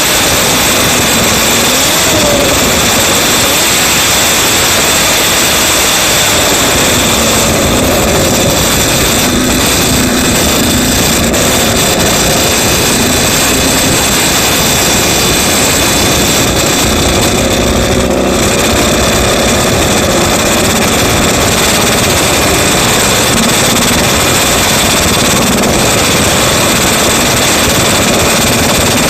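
Honda RA272's 1.5-litre V12 Formula 1 engine running loud just after being started, its pitch rising and falling repeatedly as the throttle is worked.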